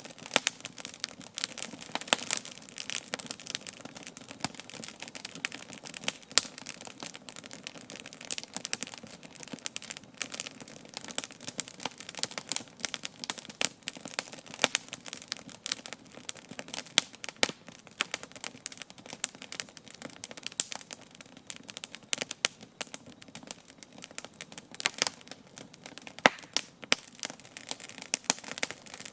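Wood campfire burning, with dense irregular crackling and a few louder sharp pops.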